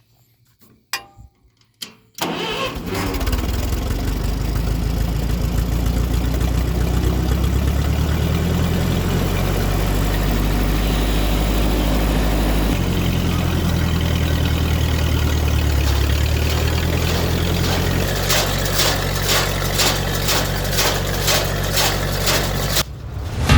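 Ferguson TO-20 tractor's four-cylinder gasoline engine running steadily after a short quiet start, its pitch shifting about 12 seconds in and again about 18 seconds in. A rapid, even clatter joins it over the last few seconds.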